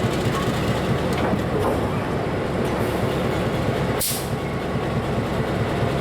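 Train running with a steady rumble. A short hiss sounds about four seconds in.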